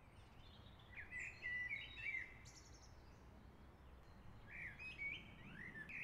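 Birds chirping over a faint low background rumble, with one run of short calls about a second in and another after about four seconds.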